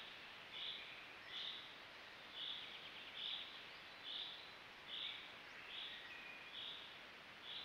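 A bird calling one short, high note over and over, about once every 0.8 seconds, with fainter calls of other birds now and then over a steady background hiss.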